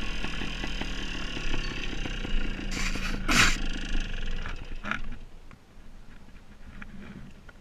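Two-stroke engine of a Gas Gas TXT trials motorcycle running at low revs while the bike is ridden slowly over rocky ground. About three seconds in its note drops with a couple of brief scraping rustles. After about five seconds it goes much quieter.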